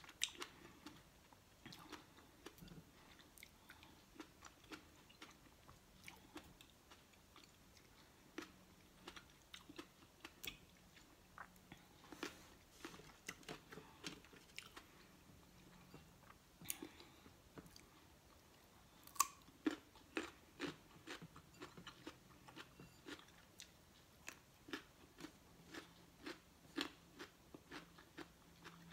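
A person chewing and crunching raw fruit and vegetables (grapes, carrot sticks, cucumber): a steady run of short crunches and wet mouth clicks, loudest about two-thirds of the way through.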